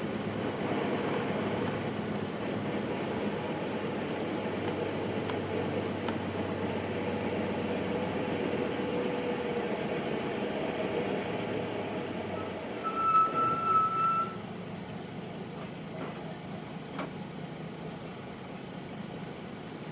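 Onboard running sound of a Nissan Diesel Space Runner RM (KC-RM211) mid-size bus, its FE6 six-cylinder diesel pulling steadily. About two-thirds of the way through, a high electronic tone sounds for about a second and a half, after which the engine note drops quieter.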